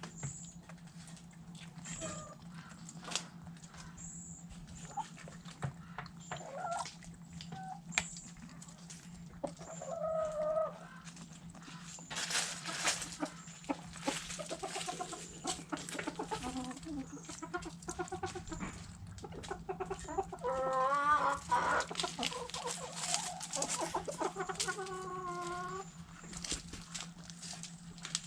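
Backyard hens clucking and calling while pecking at food scraps, with many short sharp pecking clicks. Louder drawn-out calls come about ten seconds in and again after twenty seconds, over a steady low hum.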